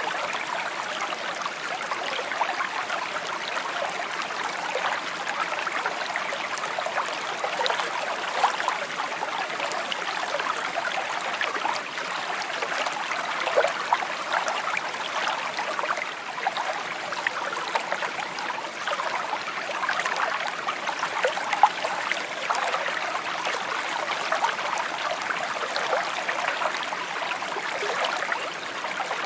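Small stream babbling and trickling over stones, a steady bright burble of small splashes and gurgles.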